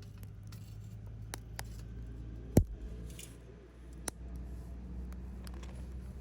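Campfire crackling: scattered sharp pops from the burning fire over a low steady rumble, with one much louder pop about two and a half seconds in.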